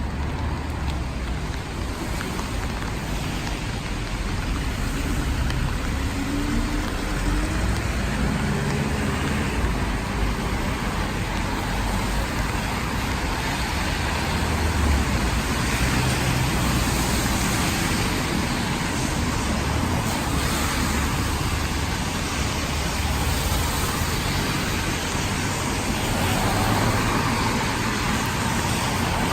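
Steady rain mixed with road traffic: cars passing on the wet street, one engine rising in pitch about six seconds in.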